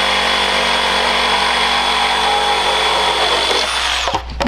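Reciprocating saw (Sawzall) running steadily as it cuts through a swing set's frame, then stopping about four seconds in. A couple of sharp clicks follow near the end.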